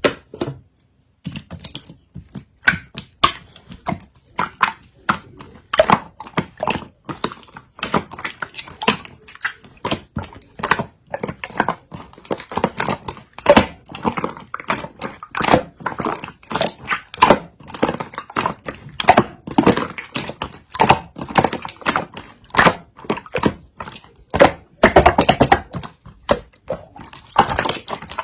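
Clear yellow slime being pressed and pulled by hand, making dense, irregular sticky clicks and crackles, several a second.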